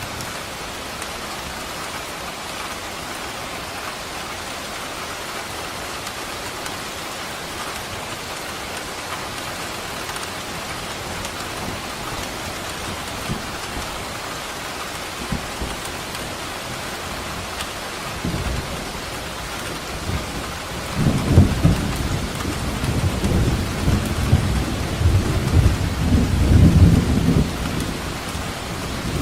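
Steady rain with a long rumble of thunder that builds about two-thirds of the way in, is loudest for several seconds, and eases off near the end.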